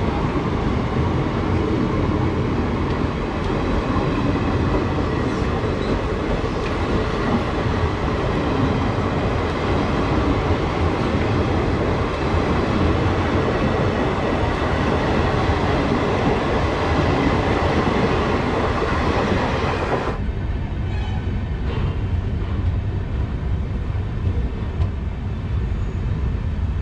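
Express train running on the rails, heard from on board its LHB coaches: a steady, loud rumble of wheels and track. About twenty seconds in, the higher hiss cuts off suddenly and a lower rumble remains.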